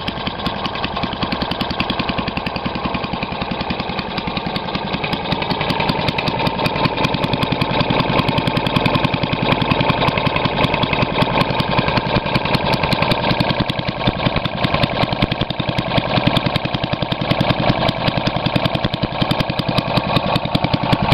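1937 Briggs & Stratton Model WM single-cylinder four-stroke engine running steadily on its own after a cold start, its firing beating out a fast, even rhythm. It gets slightly louder about six seconds in.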